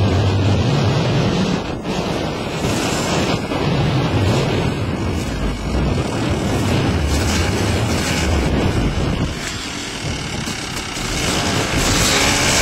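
Dirt bike engines running under heavy wind noise on the microphone, dipping in level about ten seconds in.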